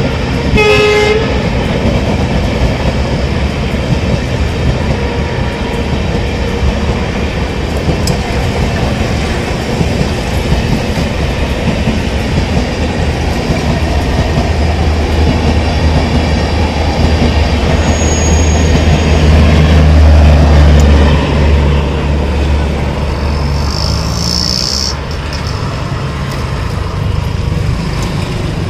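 Passenger train coaches passing close at speed on Indian Railways track: a continuous rumble and rattle of the wheels on the rails. A short train horn toot sounds about a second in. The rumble deepens and is loudest from about halfway to about three-quarters of the way through.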